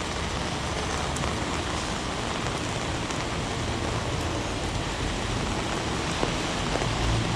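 Heavy rain falling steadily on city pavement, a dense even hiss, with a low rumble of traffic coming up near the end.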